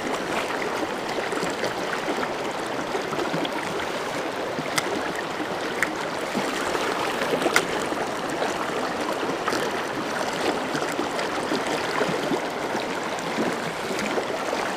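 River water flowing in a steady, even rush, with a few sharp clicks.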